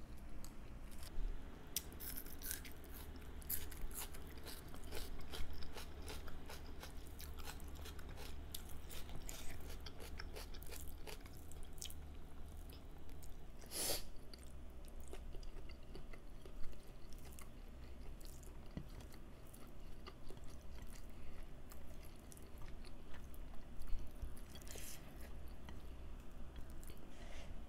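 Close-miked mukbang eating sounds: a person chewing and biting pork and vegetables, with many small wet clicks, smacks and crunches, and a louder sharp sound about fourteen seconds in. A steady low hum runs underneath.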